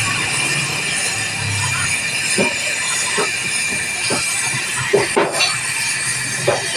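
Steady hiss with a low hum that fades early, and a few light metallic clicks and knocks from tools being handled.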